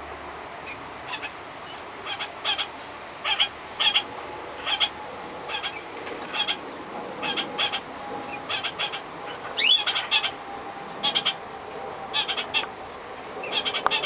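Caged birds giving short, sharp chirps in quick little clusters, about one cluster a second, with a single quick rising whistle a little over halfway through. A faint steady hum sits under the chirping from a few seconds in.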